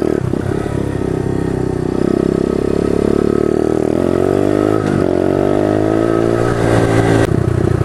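Pit bike engine running under throttle while riding on dirt: its pitch climbs, drops briefly twice, about four and five seconds in, and climbs again, then changes abruptly just after seven seconds.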